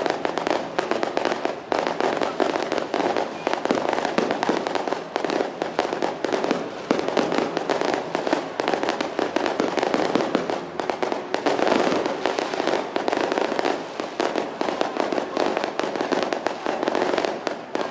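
Firecrackers going off in a dense, continuous rattle of rapid bangs, with a few brief lulls.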